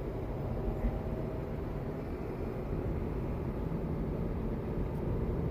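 Steady low rumble of a small car driving, heard from inside the cabin: engine and road noise.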